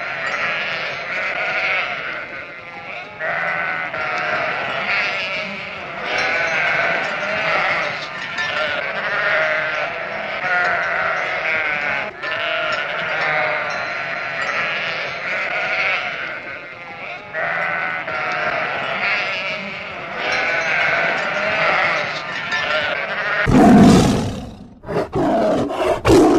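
A flock of sheep bleating, many overlapping wavering calls one over another. Near the end the bleating gives way to a loud, sudden burst of another sound.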